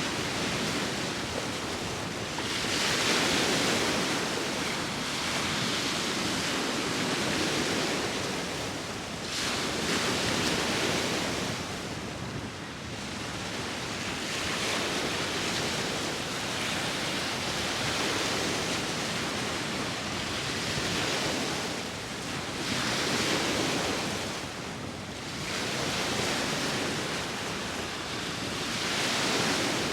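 Sea waves breaking and washing on the shore, swelling and ebbing every few seconds, with steady wind blowing.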